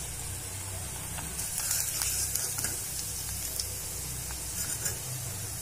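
Oil sizzling in a kadai around coated boneless chicken strips that have fried through, as a perforated slotted spoon lifts them out of the oil, with a few faint clicks.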